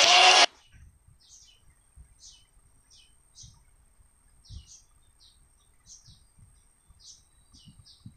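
A loud burst of music cuts off about half a second in. Then come faint, short, high bird chirps, one or two a second, over a faint steady high-pitched tone.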